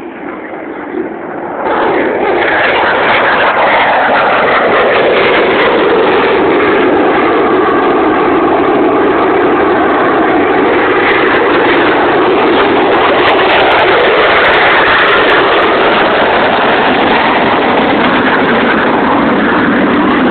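Loud jet-aircraft noise from a low pass at an air show, coming in suddenly about two seconds in and holding as a steady rush whose tone slowly sweeps.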